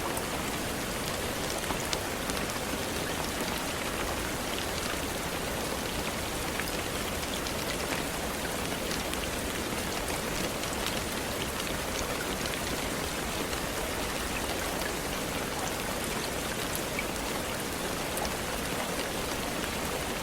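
Steady rain falling, a constant hiss with scattered drops ticking on a hard surface.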